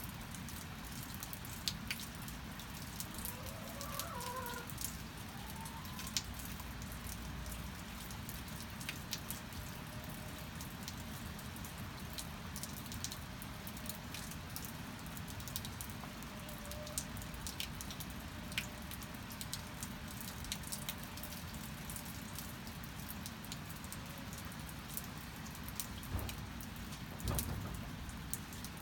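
Steady rain with many sharp drips falling on a surface, and hens giving a few short clucking calls about four seconds in. Two dull thumps near the end.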